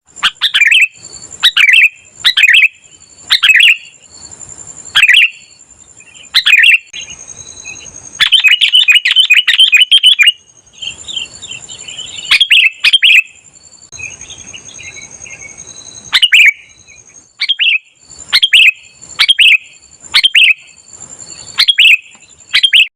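Sooty-headed bulbul (kutilang) singing: short, loud chirping phrases repeated every second or two, with a fast run of quick notes about eight to ten seconds in. A steady, thin, high-pitched tone runs underneath.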